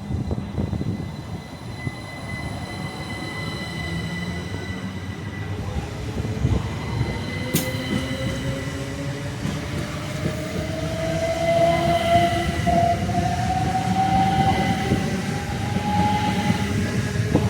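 Southeastern electric multiple unit under way: a rumble with a motor whine that rises slowly in pitch as the train picks up speed. A single sharp click comes a little under halfway through.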